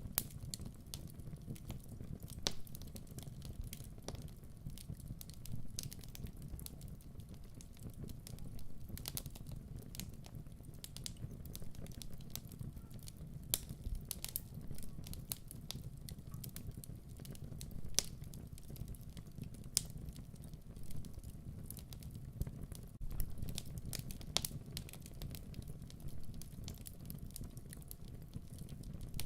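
Wood fire crackling in a fireplace: irregular sharp pops and snaps, a few a second, over a steady low rumble of burning.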